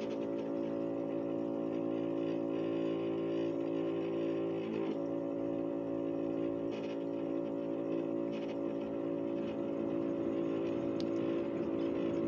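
Keurig single-cup coffee maker's water pump running while brewing, a steady droning hum. The owner takes the machine for faulty and in need of replacing.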